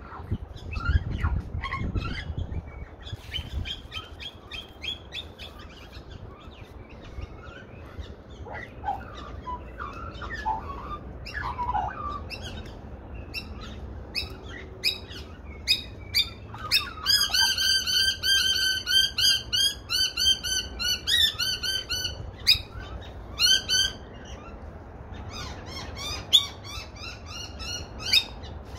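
Australian magpies and other birds calling: scattered chirps and warbles, then from about halfway a run of rapid, repeated ringing high notes lasting several seconds, with another run near the end. A low rumble is loudest in the first couple of seconds.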